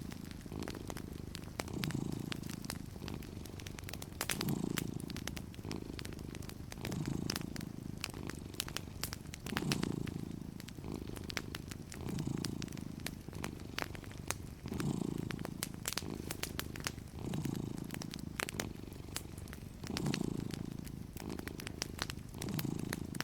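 A cat purring steadily, the purr swelling with each breath about every two and a half seconds, over the scattered crackles and pops of a wood fire.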